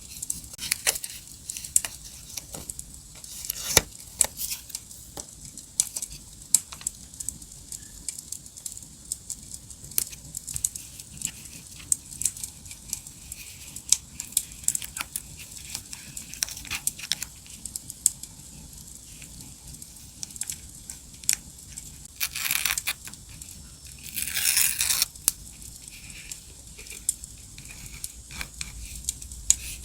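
Paper being handled and torn twice, each tear lasting about a second, late in the stretch. Under it runs a steady crackling campfire with frequent sharp pops.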